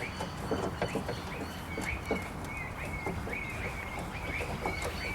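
Birds chirping, a quick series of short repeated notes, over scattered light clicks and knocks from work inside a car door panel.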